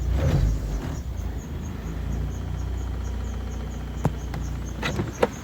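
1986 Honda Accord's A20A3 2.0-litre four-cylinder idling steadily, freshly started on a coil-on-plug ignition conversion. A faint, even high chirp repeats over the idle, which the owner puts down to a squeaking belt, and a few sharp clicks come about four and five seconds in.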